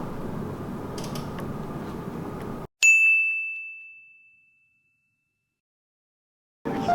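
Steady low background noise with a few light clicks stops abruptly, and a single bright bell-like ding rings out about three seconds in, fading away over a second and a half.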